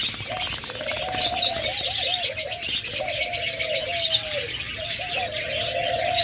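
Captive doves cooing, one drawn-out arched coo after another, over the steady high chirping of many small cage birds.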